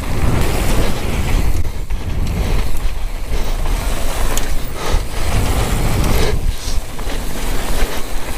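Downhill mountain bike descending a rough trail: a steady loud rumble and rattle of tyres and bike over the ground, with brief lulls every second or two.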